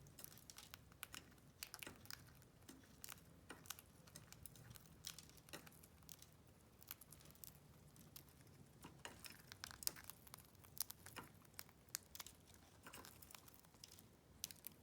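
Rosy-faced lovebirds cracking husked seeds in their beaks: faint, irregular sharp clicks and crackles, several a second.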